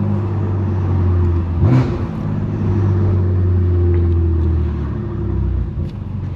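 Straight-piped S55 twin-turbo straight-six of a 2018 BMW F80 M3 Competition running steadily under light throttle. The exhaust note dips sharply and recovers about two seconds in, then eases off near the end.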